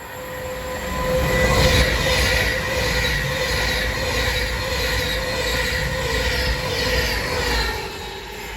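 A train running past: a low rumble with a steady whine and a rhythmic pattern repeating about twice a second, building about a second in and easing off near the end.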